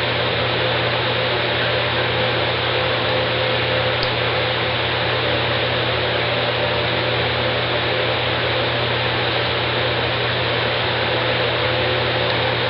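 Steady, unchanging hiss with a low hum underneath: constant background noise with no distinct events.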